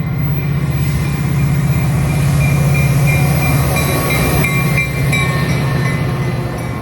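Train passing close by: a steady low drone under a rushing noise that swells to a peak midway and begins to fade near the end, with faint high-pitched squeals in the middle.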